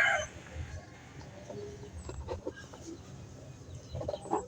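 A loud bird call ends just after the start. Then come a few faint short calls and clicks over a low rumble.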